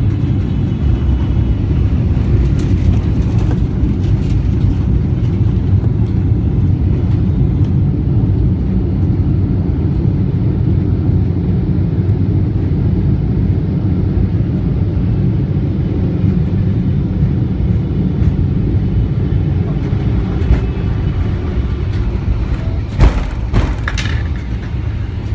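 Boeing 777-300ER cabin noise during landing: a steady, loud, low rumble of engines and airflow, with a few sharp knocks and a thud near the end.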